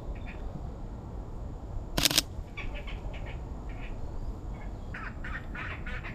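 Birds calling in an aviary: short, scattered high chirps. About two seconds in, a brief loud rattle of a camera shutter firing a quick burst.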